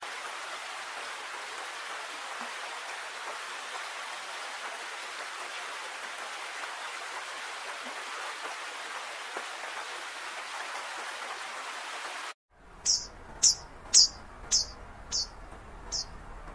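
A steady hiss like rain or running water, which cuts off abruptly about 12 seconds in. After a short gap come about eight short, high, sharp chirps, each falling slightly in pitch, roughly two a second.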